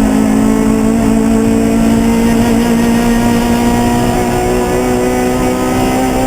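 Race car engine held at high revs with one steady, sustained note that drifts slightly lower, over road and wind noise.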